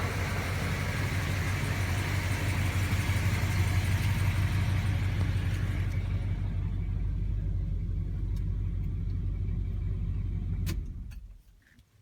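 Chrysler 440 V8 running at a steady idle with a low rumble, breathing through a four-barrel Holley carburettor. It stops near the end, leaving near silence with a few small clicks.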